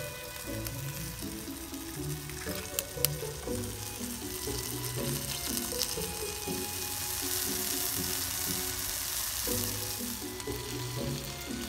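Eggs and ham sizzling as they fry in a cast-iron skillet over a wood fire, the hiss swelling for a few seconds in the second half, with a few sharp pops near the start. Background music plays throughout.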